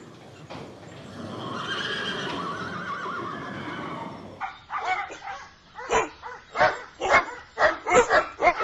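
A horse whinnying, one long wavering call. About halfway through it gives way to a dog barking repeatedly, about two barks a second.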